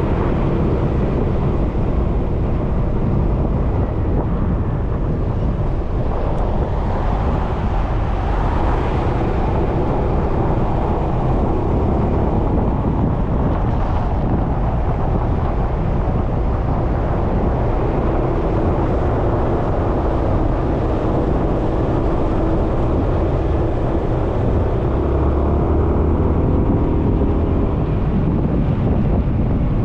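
Suzuki Burgman 400 scooter's single-cylinder engine running steadily while riding on the road, with heavy wind noise on the bike-mounted microphone.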